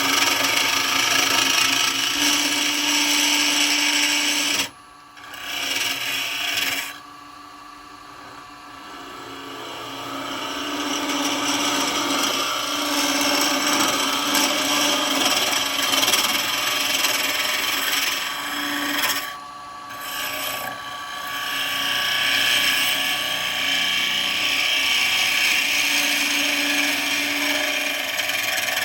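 A turning tool cutting a spinning wooden bowl blank on a lathe, a steady scraping hiss of shavings coming off. The cut breaks off sharply about five seconds in, stays low for a few seconds and builds back up, and breaks again briefly near 19 seconds.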